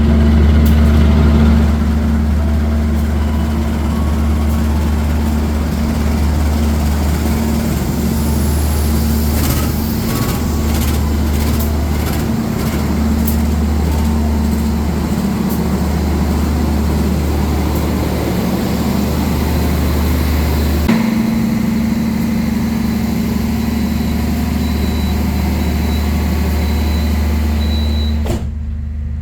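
Diesel engine of a train running steadily at idle, a deep constant hum with a steady drone above it; the hum shifts slightly about two-thirds of the way through.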